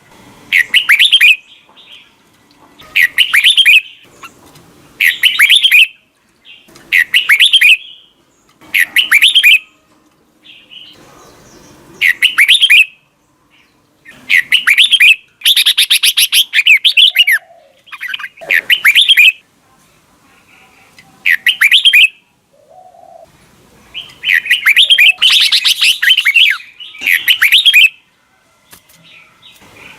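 Red-whiskered bulbul singing: about a dozen loud, short warbled phrases, one roughly every two seconds with short pauses between them, some running longer about halfway through and again near the end.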